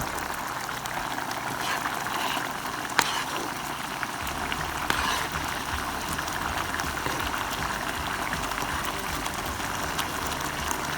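Spiced yogurt-and-cream gravy bubbling and sizzling steadily in a large frying pan as a whole cauliflower cooks in it, with a few faint clicks.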